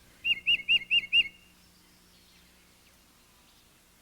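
A songbird whistling one phrase of five quick, identical, slurred notes, then stopping.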